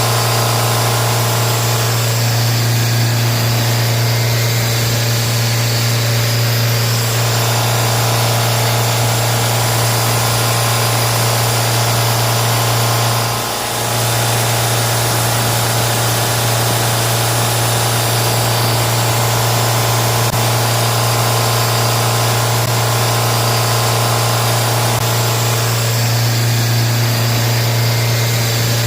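Car engine idling steadily, with a brief dip about halfway through.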